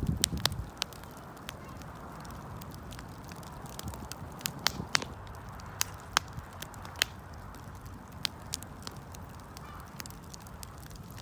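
Wood bonfire crackling: sharp, irregular pops and snaps scattered over a low steady rumble, with a cluster of louder pops right at the start.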